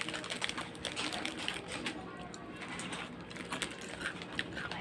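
Garlic vegetable chips being chewed: a string of short, irregular crisp crunches.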